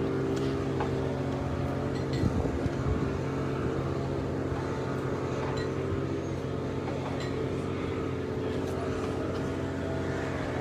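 An engine running steadily, a low drone with a slightly wavering higher hum, and a few small knocks about two seconds in.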